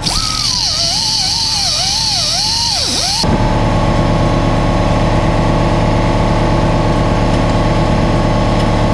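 A loud hiss with a wavering, bending tone over it, cutting off abruptly about three seconds in. Then a motor runs steadily with an even pulse.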